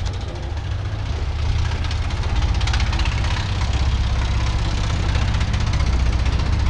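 An engine running close by with a rapid, even beat. It grows louder over the first two seconds, then holds steady.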